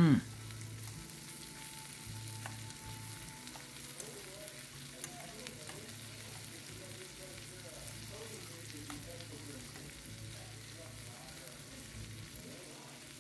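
Jumbo shrimp sizzling steadily in melted garlic butter in a stainless steel pan, with metal tongs now and then stirring and turning them.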